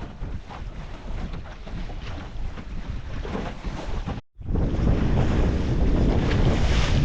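Wind buffeting the microphone over water sloshing, aboard a small sailing boat under way in a stiff breeze. About four seconds in the sound drops out for an instant at an edit, and the wind noise is louder after it.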